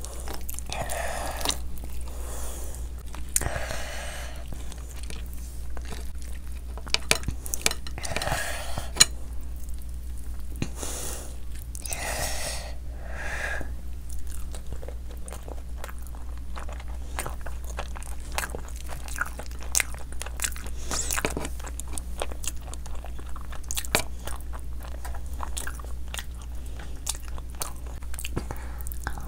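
Wet chewing and biting with many small mouth clicks and smacks as pieces of curried whole fish are eaten by hand. In the first half there are several longer squelching patches as fingers tear the curry-soaked fish apart.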